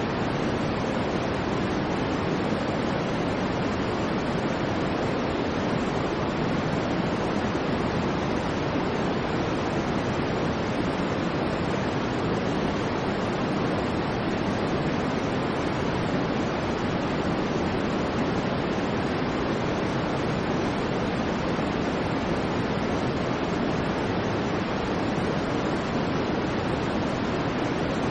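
Steady white noise: an even, unchanging hiss, fuller in the low and middle range than in the highs.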